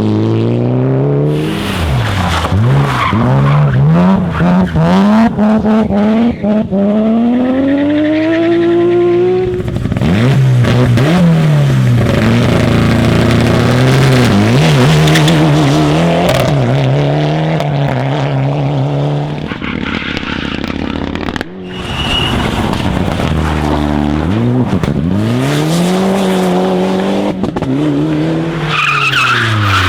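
Rally cars at full throttle, their engines revving up and dropping back again and again through gear changes, with tyres squealing on the road. The engine note breaks off briefly a little after two-thirds of the way through, then climbs again; near the end a higher tyre squeal rises over it.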